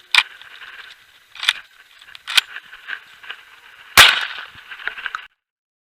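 Four shotgun shots from Tri-Star Raptor semi-automatic shotguns, the loudest about four seconds in, with fainter clicks between them. The sound cuts off suddenly near the end.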